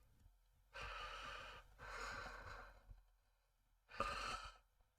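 A man breathing out heavily three times, like soft sighs, while concentrating on close work.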